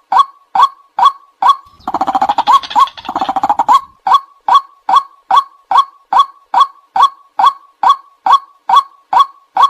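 White-breasted waterhen calling: a steady series of short, loud calls, about two to three a second. About two seconds in, a two-second run of rapid, dense calling breaks the series.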